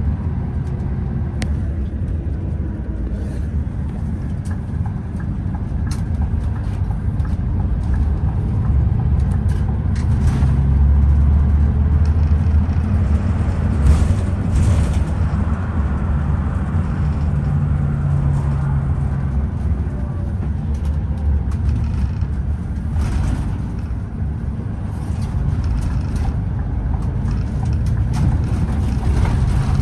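Scania OmniExpress express coach under way: a steady engine and road rumble with light clicks and rattles, the engine note swelling a couple of times.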